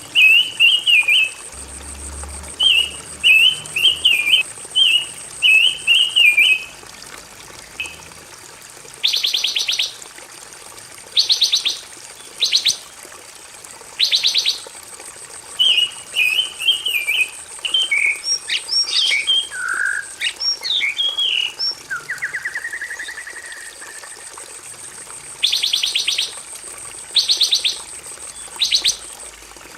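Pancawarna songbird singing: quick chattering phrases at first, then short, rapid trills repeated every couple of seconds, with varied whistled notes and a slow rising whistle in the middle. A faint steady high-pitched tone runs underneath for part of the time.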